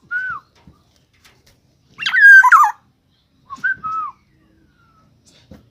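A pet bird giving three whistled calls that slide down in pitch, the middle one, about two seconds in, the longest and loudest.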